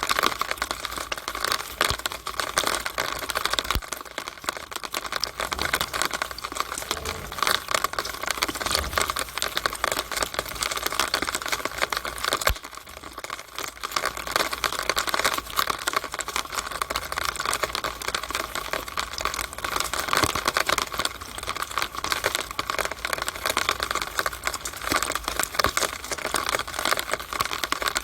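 Rainwater running through a downspout: a dense, steady crackle of spattering drops and trickling water, with a brief lull a little under halfway through.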